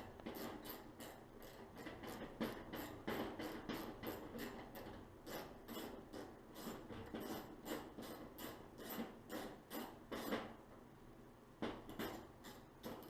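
Irregular small metallic clicks and taps, a few a second, from a tool working on a gas range's burners while the small gas orifices are swapped for propane ones. The taps thin out about ten seconds in, with a few more near the end.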